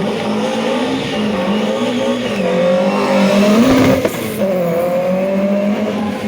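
Rally car engine pulling away under throttle, its note climbing to a peak about four seconds in, then dropping sharply at a gear change and carrying on.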